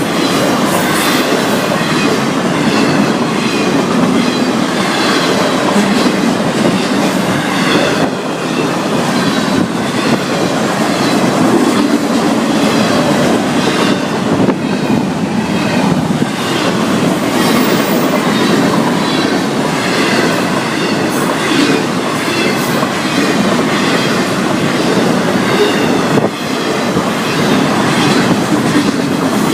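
Intermodal freight cars of a long Florida East Coast Railway train rolling steadily past: continuous loud rumble and clatter of wheels over the rails, with a regular clickety-clack and a faint, wavering squeal of wheels.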